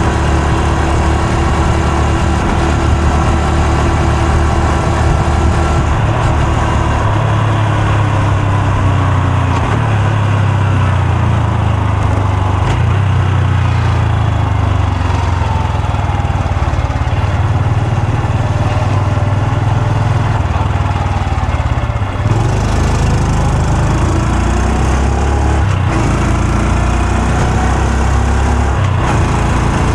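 Honda Super Cub C125's single-cylinder engine and exhaust running under way, its pitch rising and falling with the changing speed, with a brief dip about two-thirds of the way through.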